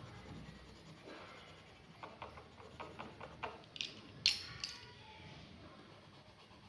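A quick run of small, sharp clicks and taps starting about two seconds in, the sharpest about four seconds in, over faint background hiss.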